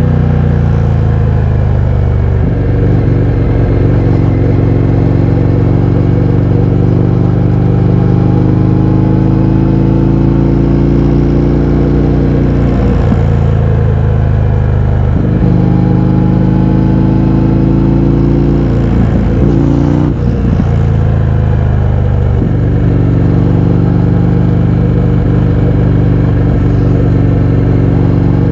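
Indian FTR 1200's V-twin through an Akrapovič exhaust with the baffles removed, under way. The engine note falls at first, then climbs slowly as the bike pulls. It drops off about halfway, climbs again, drops off once more, and runs steady near the end.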